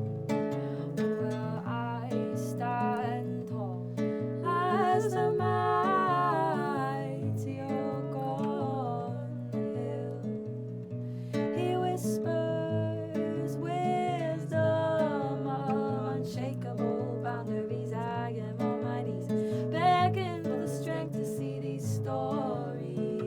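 Live acoustic guitar music: a steady, repeating strummed chord pattern. A gliding, wavering wordless melody line rises over it at intervals.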